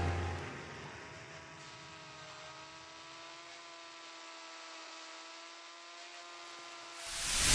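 Electronic music fades out, leaving a faint steady hum of several held tones. Loud music swells back in near the end.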